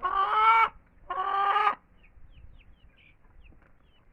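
Hens calling: two loud, drawn-out calls of about half a second each in the first two seconds, followed by faint short high chirps.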